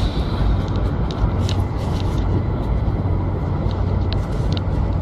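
Boeing 747 cabin noise: the steady roar of the jet engines and airflow heard from inside the passenger cabin, with a low hum underneath and a few light rattles.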